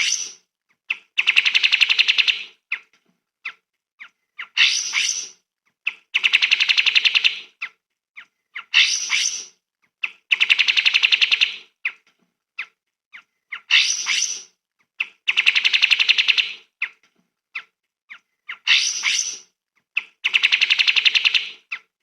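Recorded songbird song used for song-training: the same phrase repeats about every four seconds, a few short sharp chips and a louder call followed by a rapid trill lasting about a second and a half.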